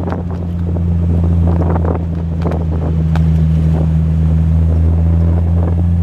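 Triumph TR6's straight-six running through a Monza exhaust with steel resonators, heard from the open cockpit with wind noise. The engine pulls, getting louder over the first second or so, then holds a steady drone.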